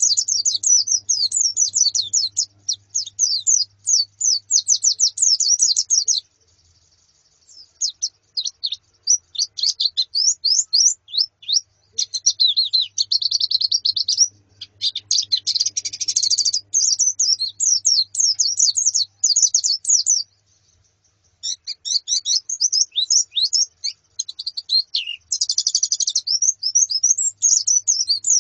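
White-eyes (pleci), a female and a flock, chirping in fast runs of short high twittering notes. The runs break off twice, briefly, about six and twenty seconds in.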